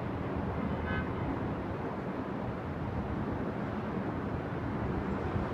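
Strong thunderstorm wind gusting steadily, rushing through the air and buffeting the microphone.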